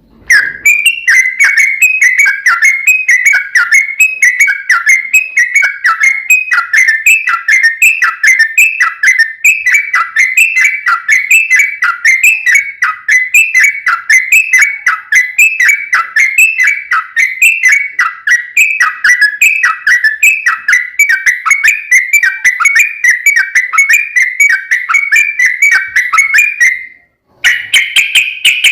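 Yellow-vented bulbul (trucukan) singing a long, rapid run of short repeated phrases, about one and a half a second. There is a brief break near the end, then the song resumes.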